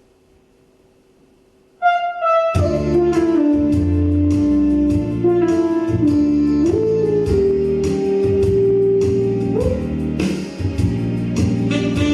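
A quiet pause, then about two seconds in a live band strikes up. A single held note comes first, followed by bass, drums and a sustained melody line that steps and slides between long notes.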